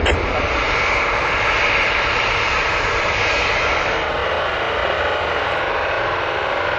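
Boeing 737 jet engines running loud and steady, a dense rush with a hissing whine that eases slightly about four seconds in.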